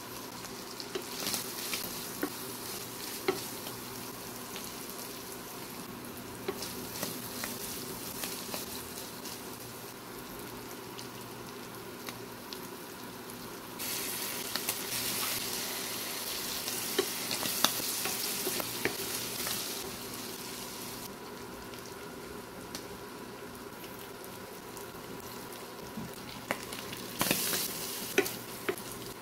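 Shredded smoked fish frying in a non-stick wok, a steady sizzle with small clicks of stirring. About halfway through, the sizzle grows louder for several seconds as something is poured in from a bowl, and near the end a wooden spatula scrapes and stirs the mix.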